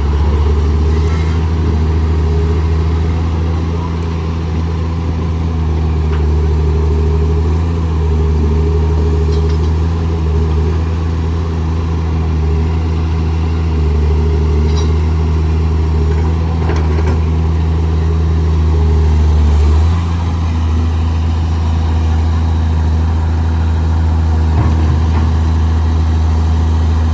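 Heavy construction-machine diesel engine running steadily at a constant low drone. Its note shifts slightly about twenty seconds in.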